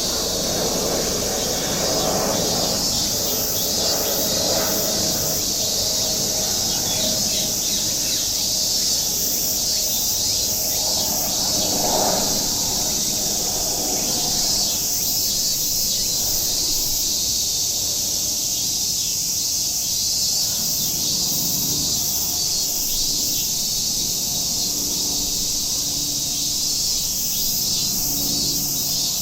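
Dense, steady chorus of cicadas buzzing high and shrill, with birds calling now and then beneath it, one call standing out about twelve seconds in.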